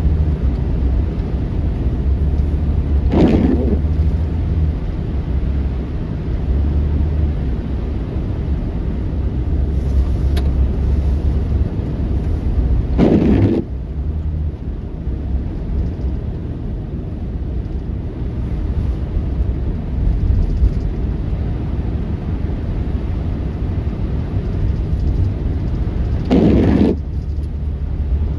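A vehicle running, with a steady low rumble and three short louder swells about ten seconds apart.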